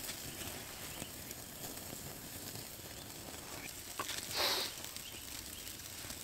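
Campfire crackling faintly with scattered small ticks, and one short, louder rush of noise about four and a half seconds in.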